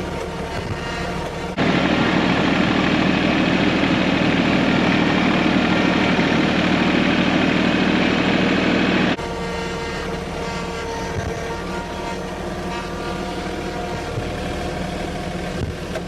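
TYM T234 HST compact tractor's Mitsubishi diesel engine running steadily. From about a second and a half in until about nine seconds, a much louder, rougher running noise cuts in and then drops away abruptly.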